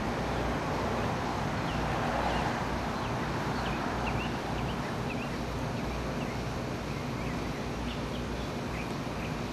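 Small birds chirping in short repeated calls over a steady low rumble of outdoor background noise.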